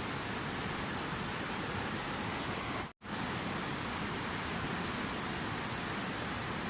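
Steady rushing water, an even hiss, that cuts out abruptly for an instant about three seconds in.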